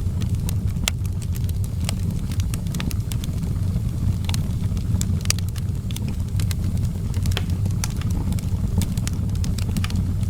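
Outdoor wood fire crackling: irregular sharp pops and snaps, several a second, over a steady low rumble.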